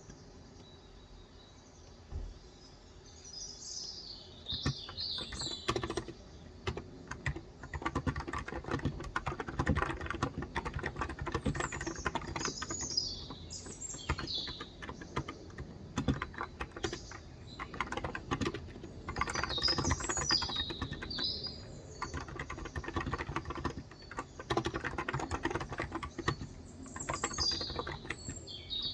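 Typing on a Cox Endeavor electro-capacitive (Topre-style) tenkeyless keyboard with 35 g switches: sparse keystrokes at first, turning into steady continuous typing a few seconds in. Birds chirp in short bursts several times over the typing.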